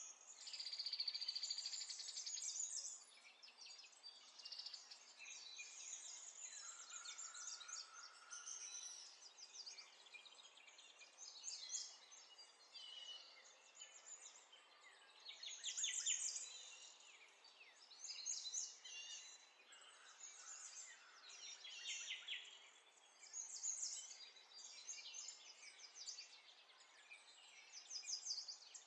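Faint birdsong: chirps and trills from several birds come and go.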